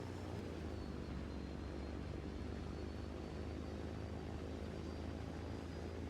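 A steady low engine drone, with a faint high whine above it.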